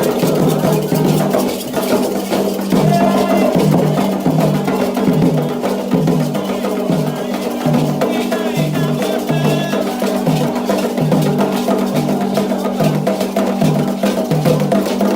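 Candomblé ritual drumming: atabaque hand drums beat a steady repeating pattern under a metal bell, with voices singing at times.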